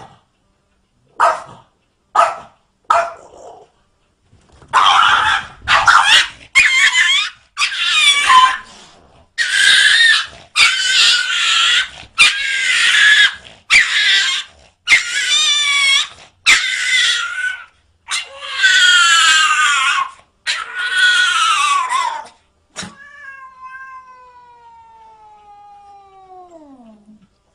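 Cat yowling: a few short meows, then a long run of drawn-out, wavering calls one after another, ending in a quieter, long falling tone.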